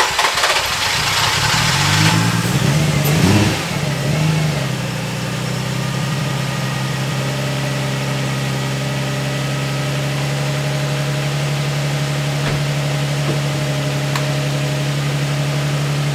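Infiniti G35's 3.5-litre VQ V6 just after starting: the revs run high and unsteady, rising and dipping for about four seconds, then settle into a steady idle. This is the first start after cleaning the throttle body and MAF sensor; the owner says it didn't start the smoothest and puts that down to the engine relearning the MAF sensor.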